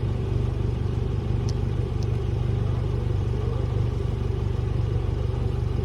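An engine idling steadily, with two faint ticks about a second and a half and two seconds in.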